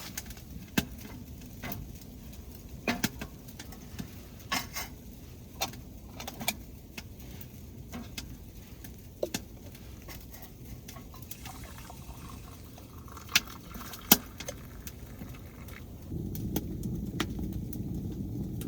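Scattered sharp clicks and knocks at irregular intervals over a low steady background, the loudest two close together about three-quarters of the way through; a louder low rumble comes in near the end.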